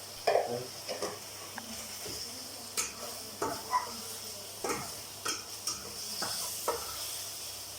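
Mutton frying with spice masala in a pan, sizzling steadily while a utensil stirs it, with irregular scrapes and clinks against the pan.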